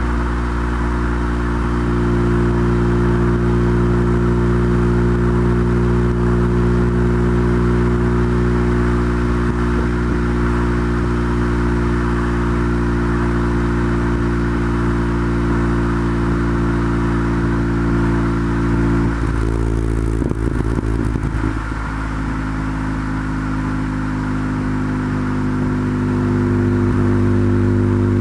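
Integra GSR's four-cylinder engine, fitted with Integra Type R camshafts and exhaust, running steadily under way at a constant engine speed. About two-thirds of the way in the note briefly breaks up, then it settles into a steady note again and grows louder near the end.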